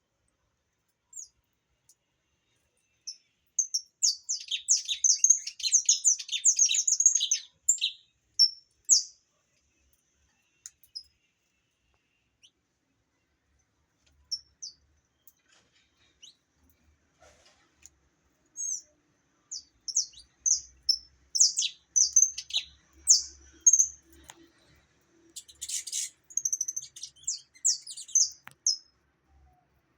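Saffron finch singing: two bouts of quick, high chirping phrases, the first starting about four seconds in and the second running from about nineteen seconds until near the end, with a few single chirps between them.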